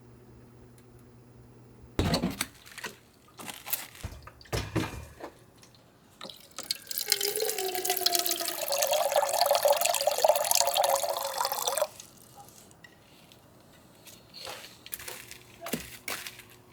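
Water pouring steadily into a container for about five seconds, then cutting off suddenly. A few knocks and clatters from handling come before it.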